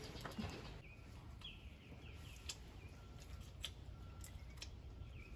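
Faint bird chirping: a short run of small falling chirps about one to two seconds in, with single chirps later, over a low background hum and a few soft clicks.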